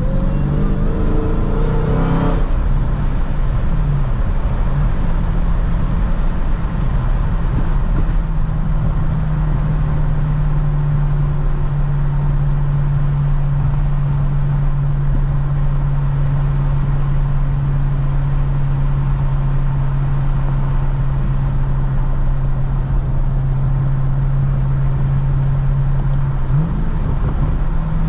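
Dodge Challenger SRT Hellcat's supercharged 6.2-litre V8 heard from inside the cabin. The engine note rises for the first two seconds and is cut by a sharp click about two seconds in. The car then cruises with a steady engine drone that settles slightly lower partway through, and near the end the engine note sweeps up quickly.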